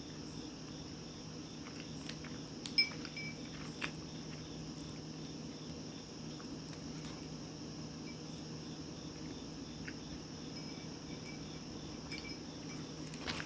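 Low-level steady background of a high, insect-like chirring over a low hum, with a couple of small clicks about three and four seconds in.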